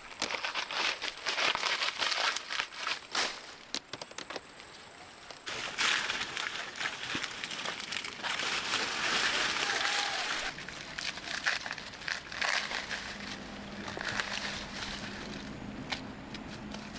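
Crinkling, crackling rustle full of small clicks, heaviest in the middle stretch. A faint steady low hum comes in after about twelve seconds.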